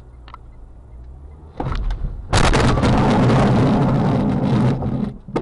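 Car collision: a low hum of engine and road, then a sudden loud impact about a second and a half in, followed by nearly three seconds of loud, dense crash noise and a few sharp knocks near the end.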